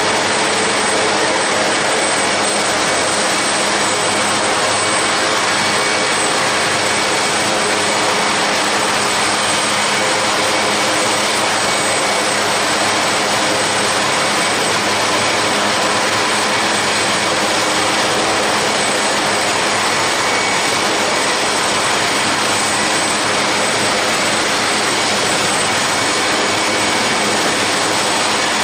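Aircraft turbine engines running steadily at an unchanging level, a dense jet roar with a faint high whine over it.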